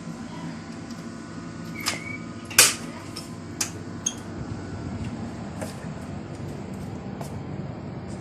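Steady mechanical hum with a few sharp knocks, the loudest about two and a half seconds in.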